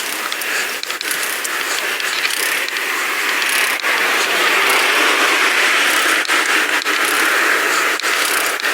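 Pedal bicycle being ridden: steady rolling road noise with frequent sharp clicks and rattles from the bike, swelling a little in the middle.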